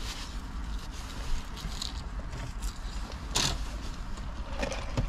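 Steady low rumble with scattered light rustling and clicks, and a short, louder rustle about three and a half seconds in.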